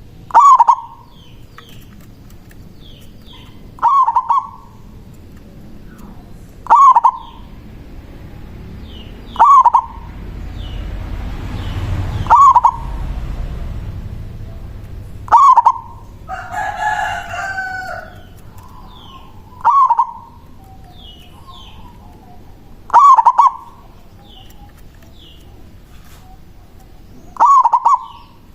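Zebra dove (perkutut) cooing its manggung song, a short call repeated nine times about every three seconds. A longer call from another bird comes about two-thirds of the way through.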